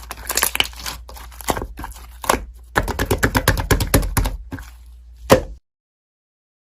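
Scattered sharp taps and knocks, then a quick run of about ten taps a second and one loud click, after which the sound cuts off to silence.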